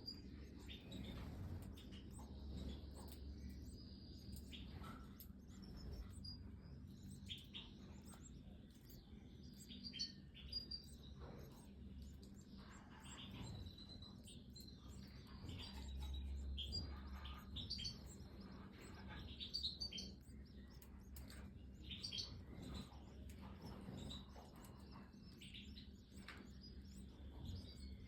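Goldfinches in an aviary chirping in short, scattered calls, over a faint low steady hum.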